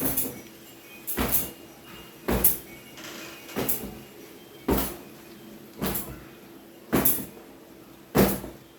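Hand towel rubbing and squeezing long wet hair in even strokes, a short swish about every second, eight in all.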